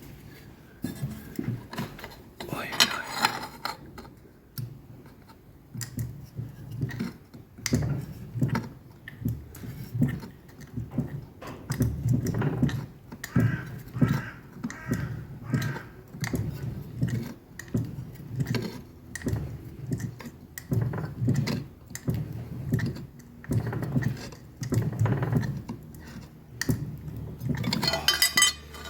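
Fly press bumping vein-forming tooling into 2 mm steel plate: repeated heavy clunks with metallic clinks and knocks as the press is worked and the plate is shifted between strokes.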